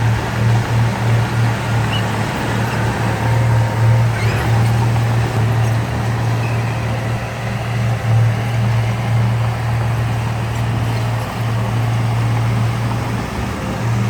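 Diesel engine of heavy earthmoving machinery running steadily, a loud, low, continuous drone that pulses slightly.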